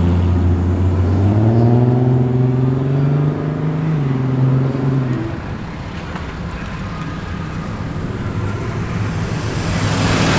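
A Ford Cortina's engine pulls away, its note climbing as it accelerates for several seconds and then fading. Near the end another car's engine builds up as it approaches.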